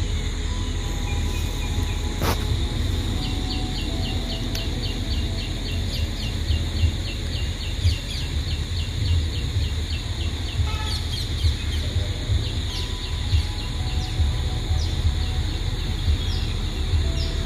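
Outdoor ambience with a steady low rumble on the microphone and a bird calling a fast run of short high chirps, about four a second, for several seconds. A few scattered calls follow, and there is a single sharp click about two seconds in.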